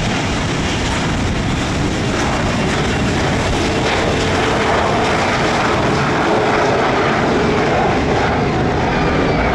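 Gulfstream G450 business jet's Rolls-Royce Tay turbofan engines running, a loud steady jet noise that grows slightly louder, with a faint steady tone in it.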